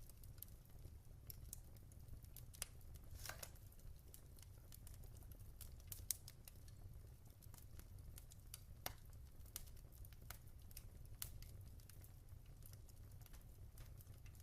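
Wood fire crackling in a fireplace: irregular sharp pops and snaps over a steady low rumble, with a few louder pops about 3, 6 and 9 seconds in.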